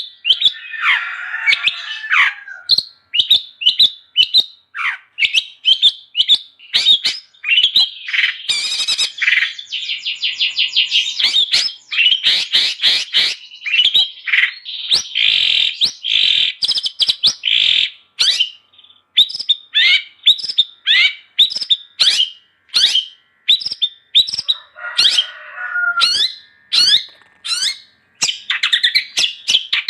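Long-tailed shrike (cendet) singing without a break: a fast stream of sharp chirps and rapid trills, with harsh, scratchy chatter about a second in and again about 25 seconds in.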